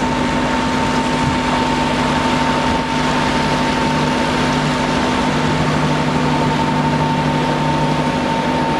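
Hire motor cruiser's inboard engine running steadily under way, a constant hum with a thin high whine over the rush of noise.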